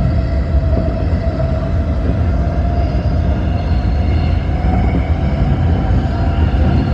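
Tōyō Rapid Railway electric commuter train running between stations, heard from on board: a steady low rumble of wheels on rail with a held tone and thin, faint whining tones above it.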